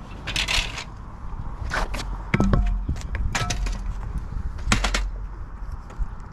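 Scattered knocks, clicks and scrapes from handling fishing gear during a fish fight, over a low wind rumble on the microphone.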